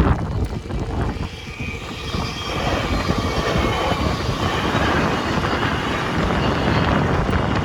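Train passing over the level crossing: the noise of its wheels on the rails swells about two and a half seconds in and then holds steady. There is wind rumble on the microphone.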